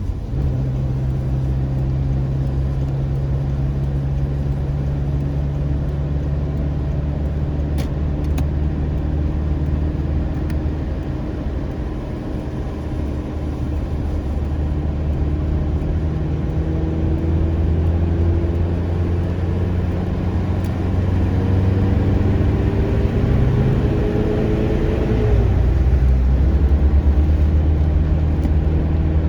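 A car driving, with a steady low engine hum and road noise. The engine note climbs and then drops about 25 seconds in.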